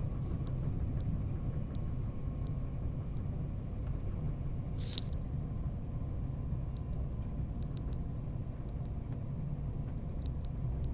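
Steady low rumble of a Queensland Electric Tilt Train running at speed, heard from inside the carriage. Faint light ticks are scattered through it, and there is one sharp click about five seconds in.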